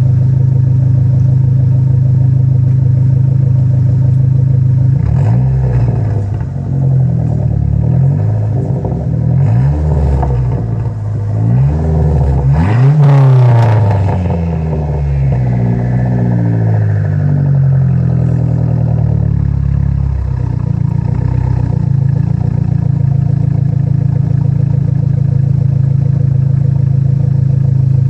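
Dodge SRT-4's turbocharged 2.4-litre four-cylinder fitted with a big turbo, idling, then blipped several times with rising and falling revs, the highest rev about halfway through, before settling back to a steady idle.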